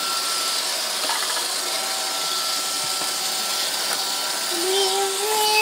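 Roomba robot vacuum running, a steady hiss with a high, even whine. Near the end a voice calls out over it.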